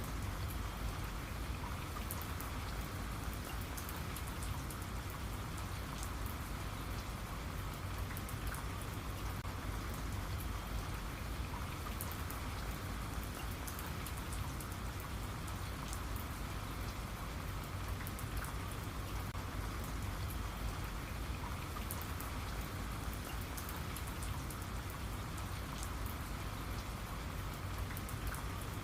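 Steady rain falling, with individual drops pattering on a surface over an even hiss and a low rumble.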